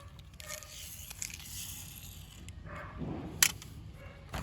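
Toy vehicles being handled: rustling and scraping for the first two seconds or so, then a sharp click about three and a half seconds in and another near the end.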